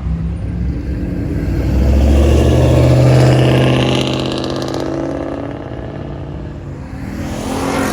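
A classic car's engine driving past close by, its exhaust note swelling to a peak about three seconds in and fading away, with the next vehicle starting to come up near the end.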